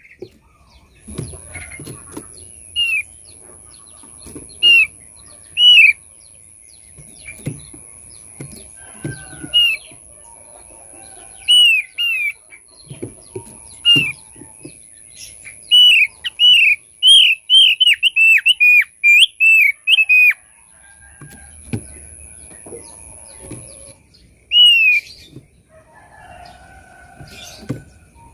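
Thick-billed white-eye calling: short, clear whistled notes that slide downward, repeated every second or two, with a fast run of them in the middle. Soft knocks and flutters come in between, with a thin steady high whine behind for most of the stretch.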